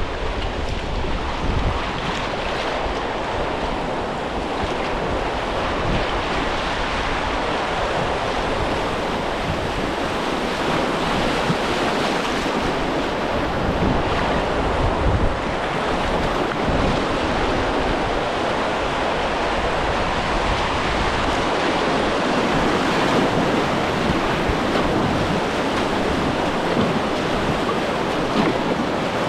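Steady rush of river water moving around a kayak on a whitewater run, with wind buffeting the microphone in low gusts.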